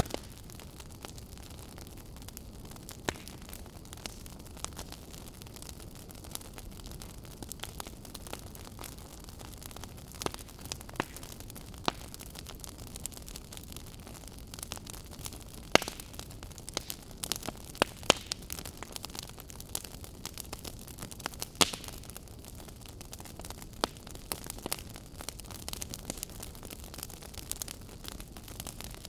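Wood fire burning: a steady low hiss under irregular sharp crackles and pops, a few louder pops in the middle.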